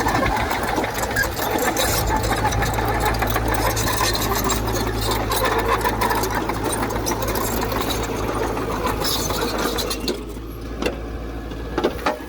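Heavy earthmoving machine's diesel engine running with a fast, even mechanical clatter over a steady low drone. The clatter eases about ten seconds in.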